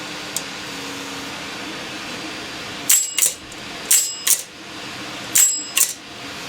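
Antique mechanical cash register's key mechanism clacking: three pairs of sharp metallic clacks with a brief bright ring, each pair about a third of a second apart, as it is worked by hand.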